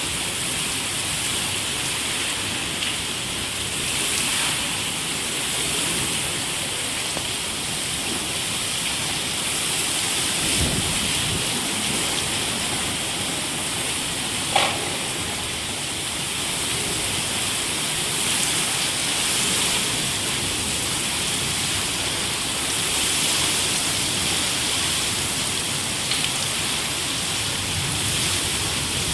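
Heavy rain falling steadily. There is a brief low rumble about ten seconds in and a single sharp knock about halfway through.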